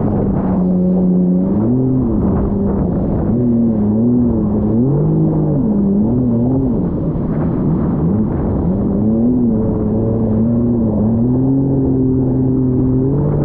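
Jet ski engine running under way, its pitch rising and falling repeatedly as the throttle is worked, over a steady rush of wind and water.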